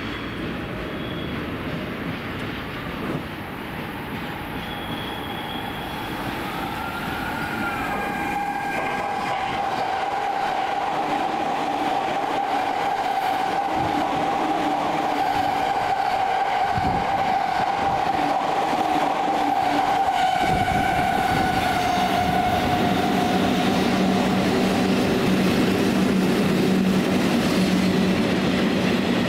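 An E231-series electric train passing through the station at speed, with a steady whine over its running noise. Near the end an EF65 electric locomotive hauling tank wagons rolls by, and the noise grows louder.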